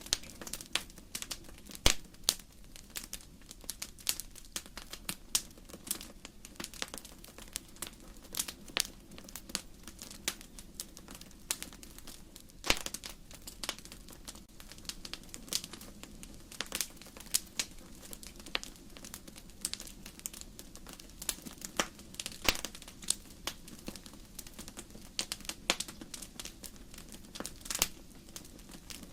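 Wood fire crackling in a fireplace: irregular sharp snaps and pops of burning logs, several a second, over a steady low rush. The loudest pops come about two seconds in, about thirteen seconds in and about twenty-two seconds in.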